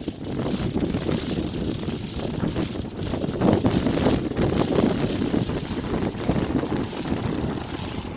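Wind buffeting the microphone: a loud, gusty rumbling noise, strongest about halfway through.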